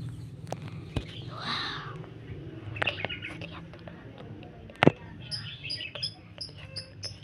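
A small bird chirping in quick, evenly repeated high notes over the last two seconds or so. Before it come a few sharp taps and knocks, the loudest about five seconds in, over a low steady hum.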